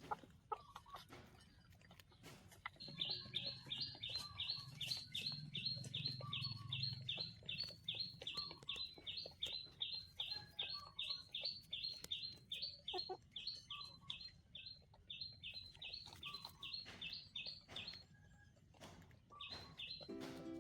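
A bird repeating a short, high chirp about three times a second for some fifteen seconds, with faint scattered clicks underneath.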